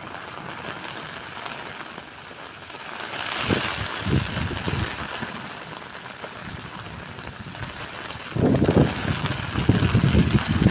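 Steady rain falling, with gusts of wind buffeting the microphone, a low rumble about three and a half seconds in and again, louder, from about eight seconds on.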